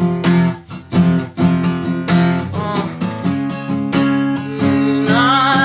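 Acoustic guitar strummed in steady chords in an instrumental break of a song, with a man's singing voice coming back in near the end.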